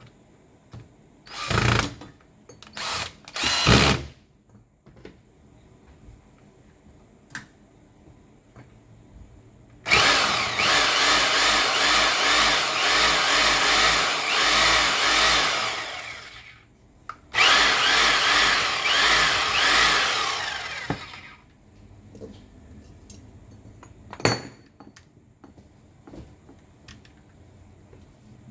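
Makita M8600B electric hammer running in short bursts, then in two longer runs of about six and four seconds, with a fast pounding pulse under the motor.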